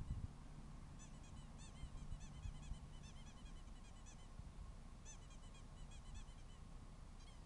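Faint bird calls: bouts of short, rising-and-falling notes repeated several times a second, broken by brief pauses.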